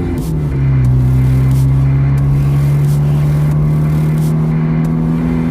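Car engine running while driving, its note dropping in pitch about half a second in, then holding steady.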